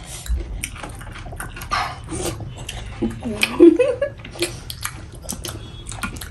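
Sounds of eating by hand and with utensils: scattered light clicks and taps of cutlery on dishes, with chewing. About three seconds in comes a brief pitched vocal sound that bends up and down.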